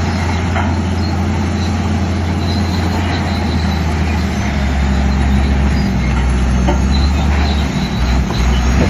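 Heavy diesel earthmoving machinery running loud and steady, with a few sharp metallic clicks and knocks. The deep engine note drops slightly about three and a half seconds in.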